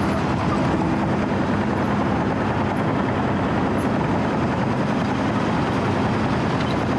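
Diesel engine of a small 4-foot cold milling machine running steadily at working speed, a constant heavy machine drone.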